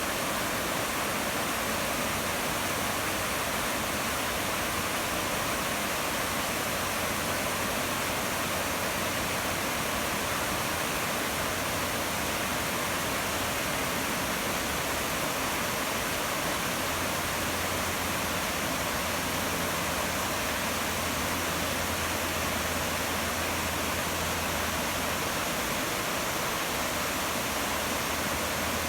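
Mountain creek rushing over cascades and small waterfalls: a steady, even rush of water.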